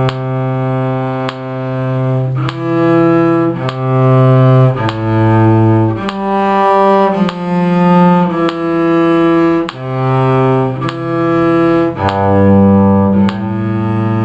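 Cello bowed in slow, long sustained notes, changing pitch about every 1.2 seconds, in the steady tempo of a slow scale practice.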